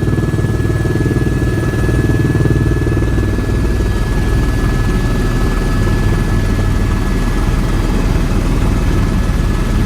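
Helicopter engine and rotor running steadily, heard from on board: a rapid, even blade chop with a constant high whine above it.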